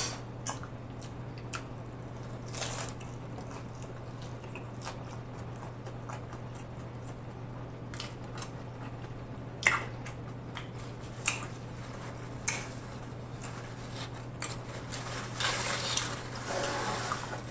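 Close-miked chewing of a crunchy hard-shell taco: scattered sharp crunches and wet mouth sounds, growing denser near the end, over a steady low hum.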